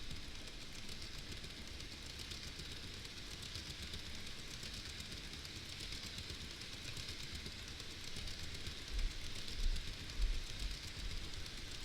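N-gauge model train (an EF200 locomotive with container wagons) running on layout track: a steady hiss of small wheels and motor. A few low thumps come about nine to ten seconds in.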